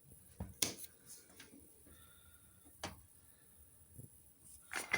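A few faint, sharp clicks and knocks, three of them, with quiet room tone in between.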